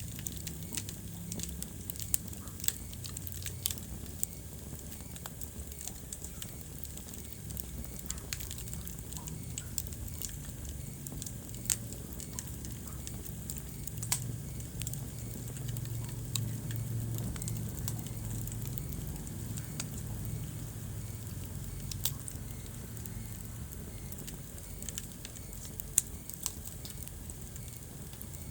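Wood fire burning in a fireplace, crackling with scattered sharp pops over a steady low rumble of the flames. A few pops stand out louder, about two seconds in and again near the end.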